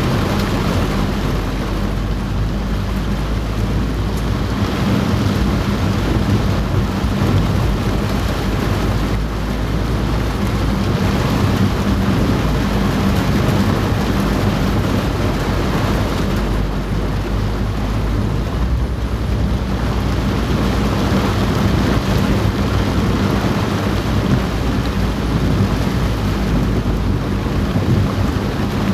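Heavy rain falling steadily on a car's roof, heard from inside the cabin, over a steady low hum.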